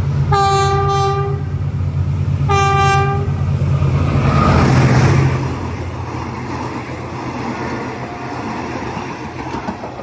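Passing train sounding its horn twice, a long blast and then a shorter one, over the low drone of its engine. The drone swells as the train goes by at speed without stopping, then the coaches run past with a steady rumble.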